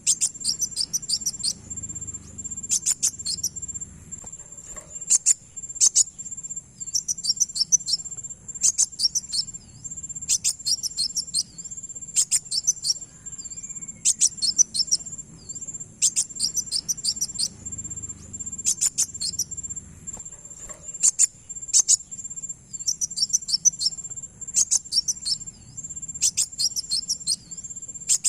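Kowul (kolibri wulung) sunbird song used as a lure: short bursts of rapid, very high chirps repeated every second or two. A steady high-pitched insect-like whine runs beneath them.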